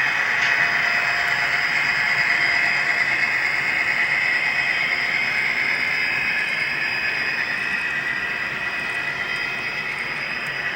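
HO scale model train running on the layout: a steady mechanical hum with a few high steady tones, growing gradually quieter in the second half.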